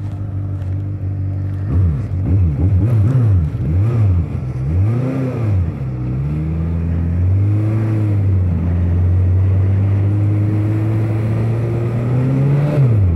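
Two-cylinder motorcycle engine accelerating away, its pitch rising and dropping quickly several times in the first few seconds, then running steadily at road speed with a brief dip near the end. Wind rush runs under it.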